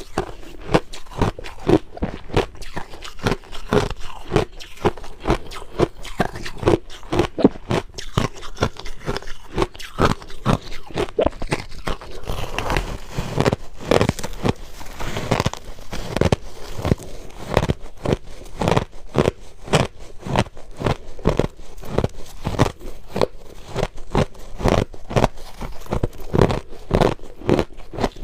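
Crushed ice being bitten and chewed close to the microphone: a rapid, continuous run of crunches, roughly two to three a second.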